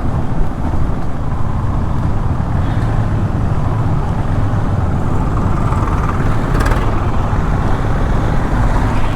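Motorcycle engine running at a steady cruise with wind and road noise on the bike-mounted action camera's microphone. A brief sharp click cuts across it about seven seconds in.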